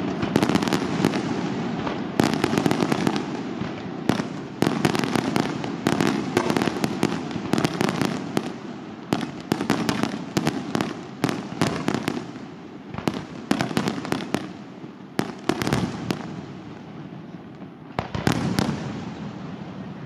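Aerial fireworks display: many shell bursts and sharp reports in quick succession, with crackle between them. The bangs come thickest at first, thin out past the middle, and build again near the end.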